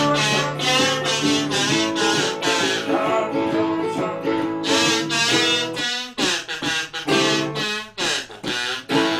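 Instrumental break in an acoustic blues song: strummed and picked guitar and ukulele chords in a steady rhythm, with short lead runs.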